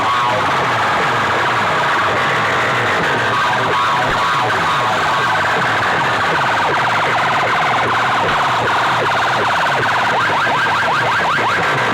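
Loud, continuous electronic siren effect played through a large loudspeaker sound system, sweeping rapidly and repeatedly in pitch, the sweeps quickening near the end.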